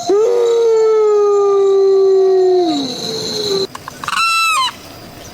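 An animal's long, steady, howl-like call, slowly sinking in pitch and dropping away after nearly three seconds, followed about a second later by a shorter, higher call that wavers in pitch.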